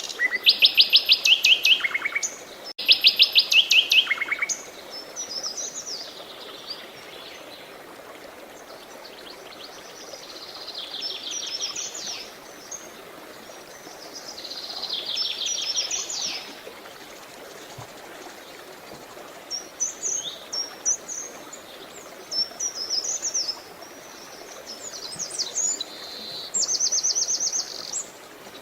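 Songbirds singing: fast, high trilled phrases, loudest in the first few seconds and returning every few seconds, with quicker chirping notes later on, over a steady hiss of running water.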